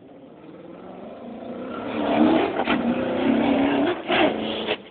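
Maserati rally car's engine revving hard as it slides across an icy lot, growing louder over the first two seconds as it comes close, with a few sharp crackles in the loud stretch, then cutting off abruptly near the end.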